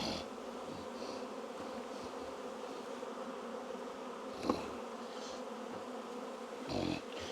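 Honey bees buzzing steadily in a mass around an opened hive, a hum with several layered pitches. A short sharp click about four and a half seconds in and a brief dull knock near the end.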